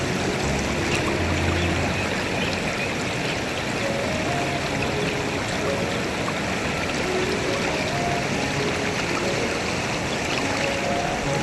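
Steady rush of a stream: an even, unbroken wash of running water.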